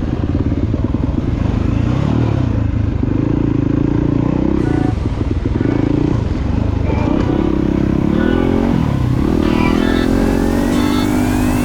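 Dirt bike engine running under way, its pitch rising and falling repeatedly as the throttle is worked, with a thin tone climbing steadily over the last few seconds.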